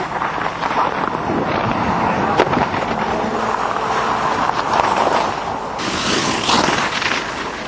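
Alpine racing skis scraping and chattering over a hard, icy race course, with sharp clicks and a harsher, hissier scrape about six seconds in.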